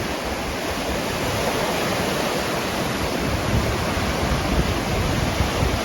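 Surf washing onto the beach at high tide: a steady rushing noise with a churning low end.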